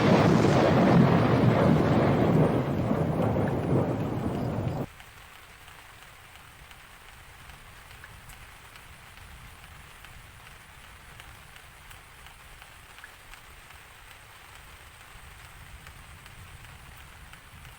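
Loud thunder rumbling over rain for about the first five seconds, then cutting off suddenly. After that, a faint, steady rain hiss continues.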